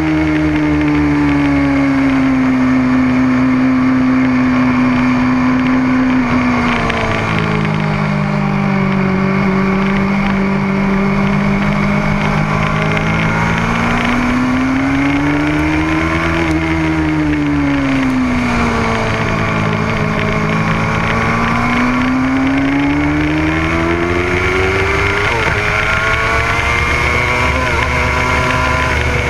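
Motorcycle engine running hard on a race track. Its revs fall at first, climb to a peak about halfway through, drop again, then climb steadily near the end as the throttle is rolled off and on.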